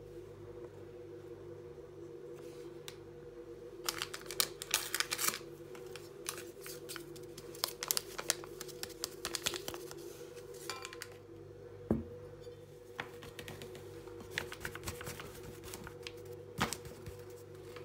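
Irregular light clicks and taps of kitchen utensils being handled, in quick clusters with a single firmer knock about two-thirds of the way through, over a steady low hum.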